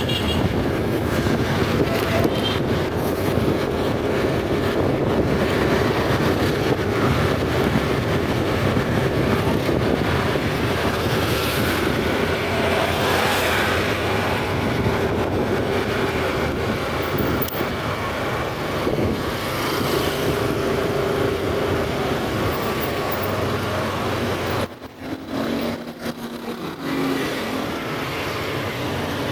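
Steady road noise of a motorcycle ride: the engine hum with rushing road and wind noise, dipping briefly near the end.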